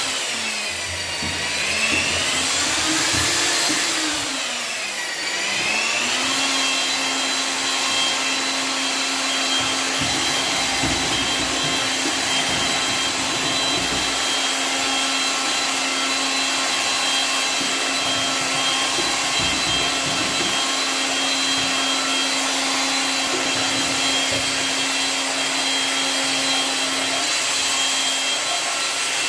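An electric motor, such as a power tool or a vacuum, speeds up and slows down twice, then runs at a steady pitch.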